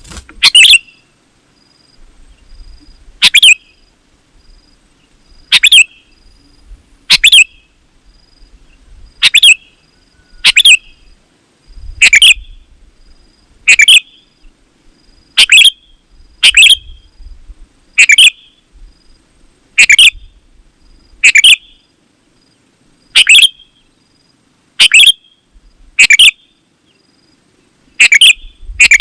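Sooty-headed bulbul (kutilang) singing persistently. It repeats a short, loud, warbling phrase about every one and a half to two seconds.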